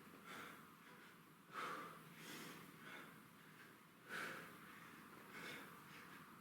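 A man breathing hard from exertion, with faint, sharp exhalations every second or so. The strongest comes about one and a half seconds in, another about four seconds in.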